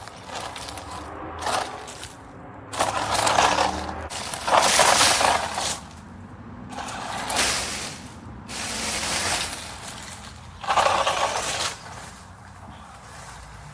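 Small 4WD RC truck driving over rough ground: about five separate bursts of scraping, crunching noise, each around a second long, as its tyres churn the surface.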